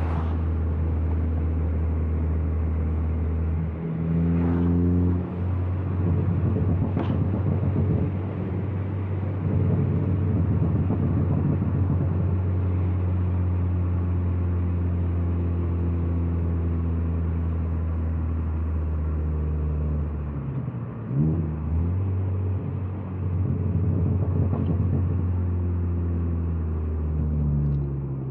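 Turbocharged Ford Focus ST engine with a catless downpipe and AWE track exhaust, driving under a steady drone. The pitch steps up and back down a few times as it accelerates and eases off.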